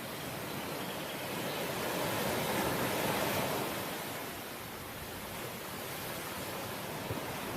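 Sea waves washing on the shore, a steady rush that swells about two to three seconds in and then eases off.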